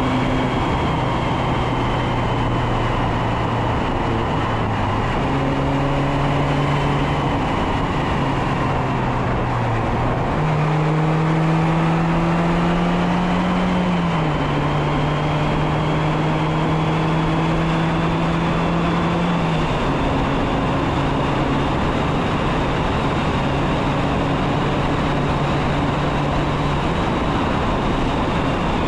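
Mazda MX-5 Miata ND2's 2.0-litre four-cylinder engine and exhaust under way, its pitch rising and dropping in steps several times as the revs change through the gears. Wind noise rushes over the bumper-mounted microphone.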